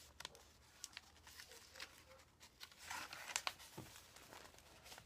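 Faint rustling and crinkling of paper as the pages of a handmade journal are handled and turned, with small scattered ticks and a slightly louder rustle about three seconds in.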